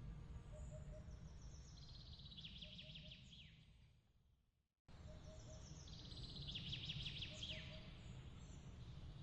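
Outdoor nature ambience: small birds giving quick high trills with a falling call, over a low steady rumble of wind, and a faint three-note chirp repeating every second or so. The sound fades out to silence about four seconds in, cuts back in abruptly about five seconds in, and the same bird pattern plays again, as in a looped recording.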